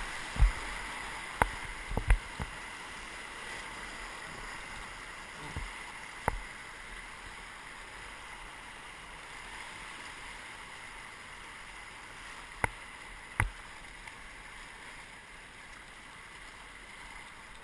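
Steady rush of whitewater as a raft runs a river rapid, with a few sharp knocks scattered through: a cluster in the first couple of seconds and a pair later on.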